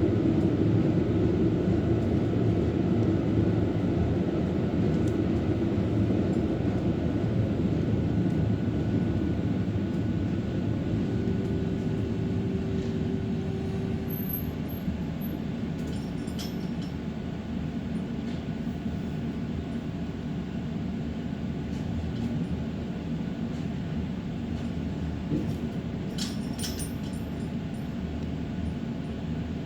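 Helsinki tram running along its rails: a steady rumble that slowly grows quieter, with a short steady hum about halfway through and a few faint clicks later on.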